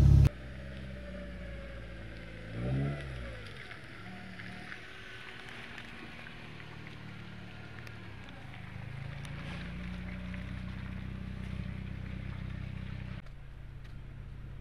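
Honda Civic EF wagon's D16 four-cylinder engine idling steadily, with a brief falling tone about three seconds in. The hum drops abruptly near the end.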